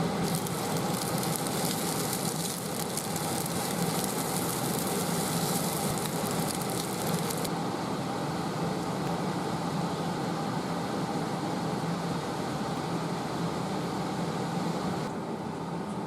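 Food sizzling in a frying pan over the steady hum of a kitchen extractor fan; the high crackle of the sizzle drops away after about seven seconds, leaving mostly the fan.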